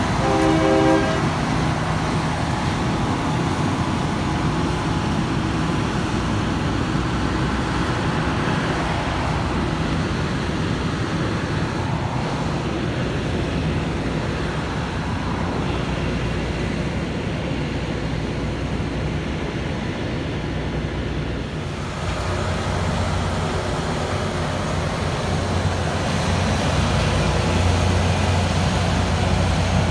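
Loram rail grinder train rolling past with its diesel engines running, its horn ending about a second in. Road traffic passes alongside. After an abrupt change near the end, a steady low engine drone is louder.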